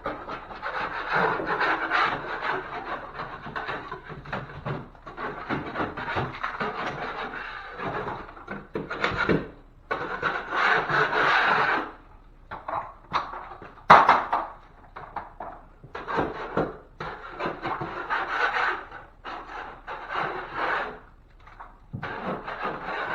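A 6-inch drywall knife scraping the ceiling drywall and rough texture around the patch in long rasping strokes, in runs with short pauses, with one sharp knock about halfway through.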